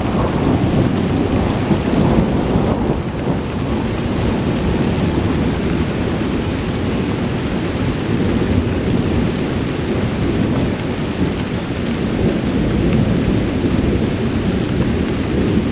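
Long rolling thunder that rumbles on steadily without a sharp crack, swelling and easing a little, over steady rain.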